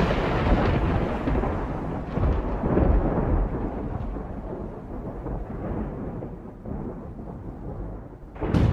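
Deep, rolling rumble of a volcanic eruption, fading slowly; a sudden loud new blast of rumble breaks in near the end.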